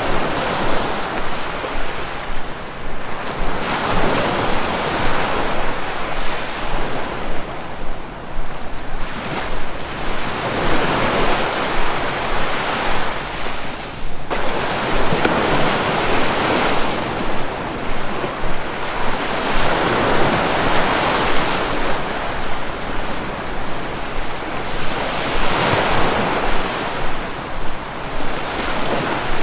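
Sea waves breaking and washing up the shore, the surf swelling and ebbing about every five seconds.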